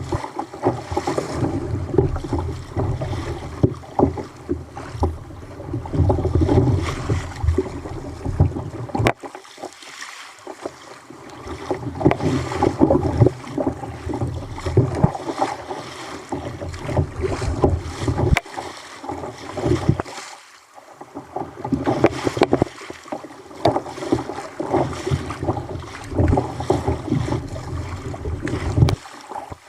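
Wind buffeting the microphone, a heavy rumble that drops out for a moment several times, over water sloshing and slapping against a kayak on a rough sea.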